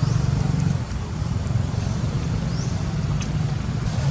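Steady low rumble of a motor vehicle's engine, with a few faint, short, high-pitched chirps above it.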